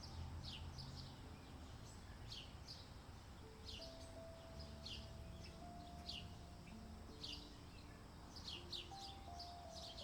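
Birds calling: short chirps that each fall sharply in pitch, repeated irregularly, several in quick succession near the end. Under them soft background music of long held notes.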